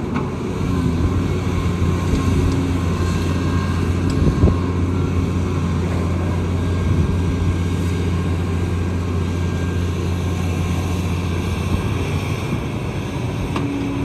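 Kobelco excavator's diesel engine running steadily, with a couple of brief knocks.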